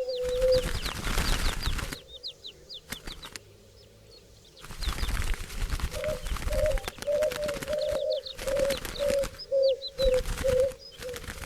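Turtle doves' wings flapping as a flock flies, then a low purring coo in short pulses from about six seconds in. Quick high chirps of small birds run through it, and the wing noise drops away for a couple of seconds about two seconds in.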